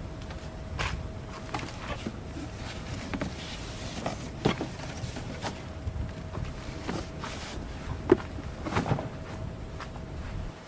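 Footsteps and scattered light knocks at uneven spacing, the sharpest about eight seconds in, over a low rumble and a faint steady high tone.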